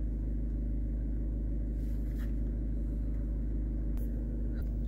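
Volkswagen Golf 7 engine idling steadily, a low hum heard inside the car's cabin, with a faint click about four seconds in.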